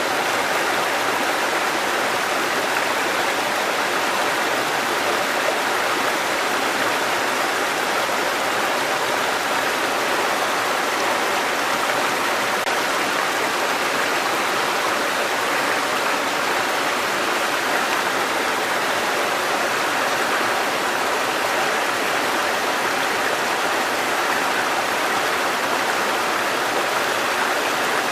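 Mountain stream cascading over rocks, a steady rushing of water.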